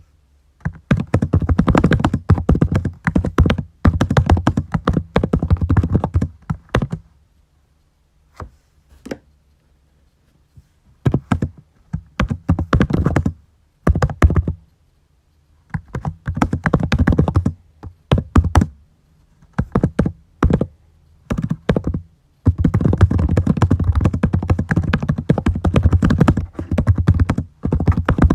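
Computer keyboard typing in quick runs of keystrokes lasting a few seconds each, broken by short pauses and a few single key presses.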